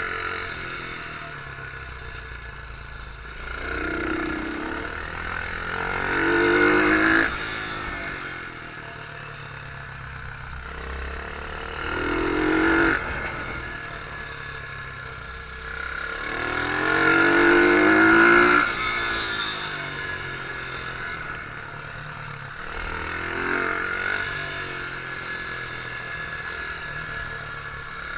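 Beta R150 pit bike engine heard on board, accelerating hard in repeated bursts: the engine note climbs in pitch for a second or two, then drops abruptly as the throttle is closed, about five times, with lower running between.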